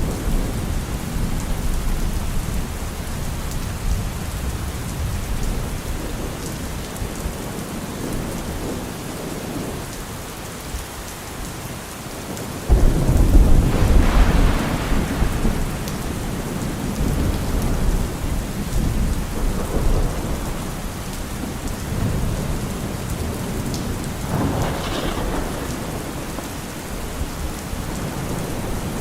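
Steady heavy rain with rolling thunder. About halfway through, a sudden loud thunderclap breaks into several seconds of deep rumbling, and a weaker roll of thunder follows near the end.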